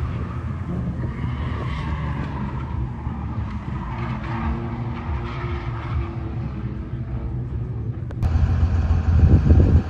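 A drift car's engine revving, with skidding tyre noise over it. About eight seconds in, the sound cuts abruptly to a louder, deeper engine rumble.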